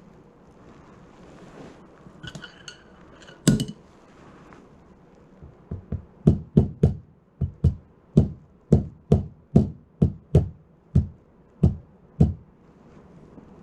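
A few metallic clinks and a single sharp knock, then a run of about seventeen sharp hammer blows at an uneven pace of two or three a second.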